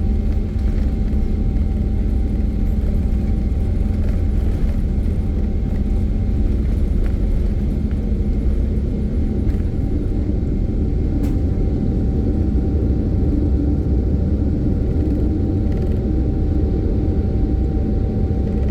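Boeing 777-200LR's GE90 jet engines running at takeoff power: a steady, deep rumble with a thin steady whine above it.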